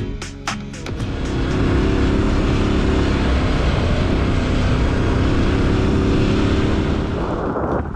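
Motorcycle engine running steadily under way, with wind rushing over the microphone. It starts about a second in as music fades out and changes abruptly near the end.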